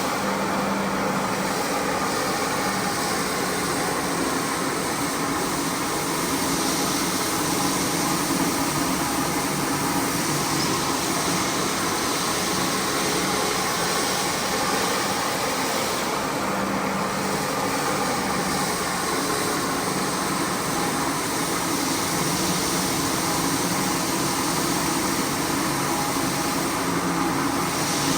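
Carpet-cleaning machine running steadily: a constant hum under a broad hiss of air or water, its tone shifting every several seconds.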